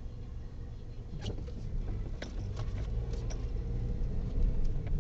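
Car engine and road rumble growing steadily louder, with scattered light clicks and knocks.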